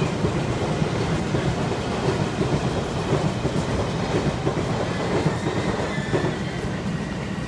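Sotetsu 12000-series electric train running slowly into a station platform, a steady rumble of wheels on the rails.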